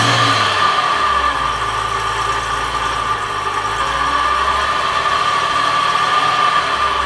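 A 4.1-litre engine running steadily at idle, with a constant high whine over the engine rumble; this is the strange noise under investigation.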